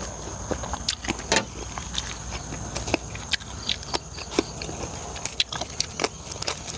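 A man chewing a mouthful of spicy pork-blood salad with fresh herbs close to the microphone: irregular wet mouth clicks and smacks. Crisp snaps come as leaves are plucked off herb stems, over a steady low hum.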